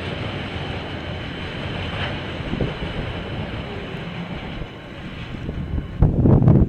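KiwiRail train running past on the line, a steady rumble of wheels on rails with a faint high ringing tone. About six seconds in, wind suddenly buffets the microphone loudly.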